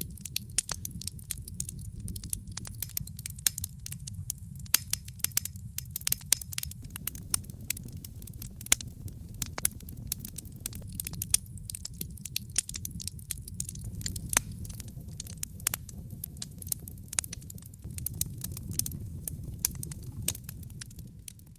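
Wood fire in a fireplace crackling: many sharp, irregular pops and snaps over a steady low rumble of the burning fire.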